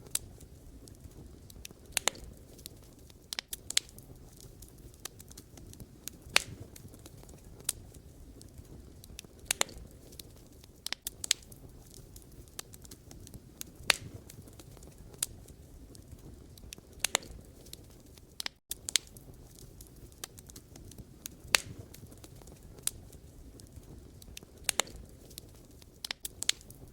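Campfire of burning wood crackling: irregular sharp pops and snaps, a few every second or two, over a low steady rumble of the flames. A brief cut-out in the sound about two-thirds of the way through.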